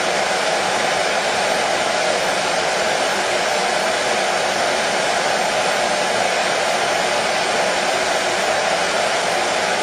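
Hair dryer running steadily, an even rushing blow of air with a faint motor hum, played as white noise to settle a colicky baby to sleep.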